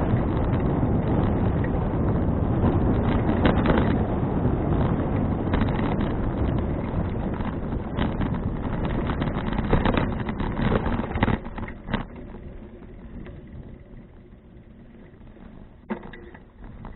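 Wind rushing over an action camera's microphone while cycling, with scattered knocks and rattles. The rush drops away sharply about two-thirds of the way through, leaving a much quieter background.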